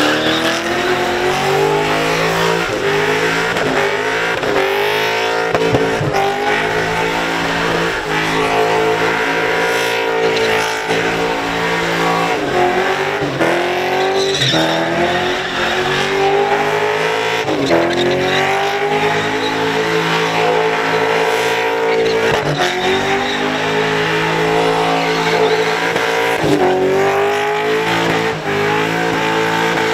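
Supercharged Holden Commodore engine held at high revs through a burnout, the revs dropping sharply and climbing back every few seconds, over the hiss of the spinning rear tyres.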